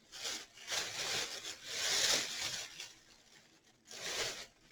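Rustling and rubbing as craft flowers are rummaged through and handled: three scratchy bursts, the loudest about two seconds in.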